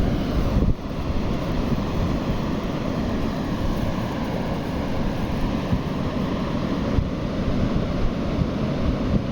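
Wind buffeting the microphone: a steady, low, rumbling rush that dips briefly under a second in.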